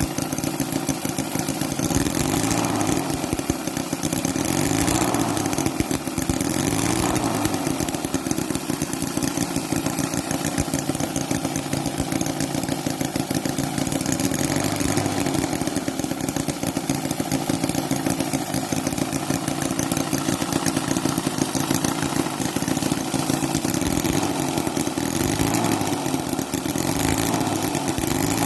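Microcosm (OKMO) H75 Holt miniature gasoline model engine running warm at a steady idle, revved up briefly a few times.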